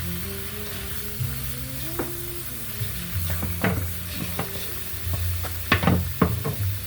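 Food sizzling in a pan while a utensil stirs it, with several sharp knocks of the utensil against the pan, loudest and closest together near the end. Background music with a bass line runs underneath.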